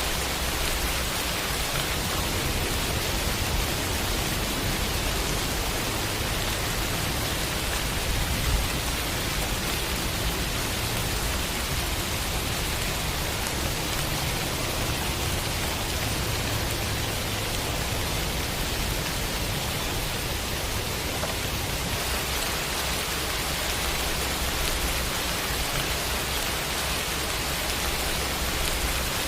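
Steady rain falling, an even hiss with one slightly louder drop or tap about a third of the way through.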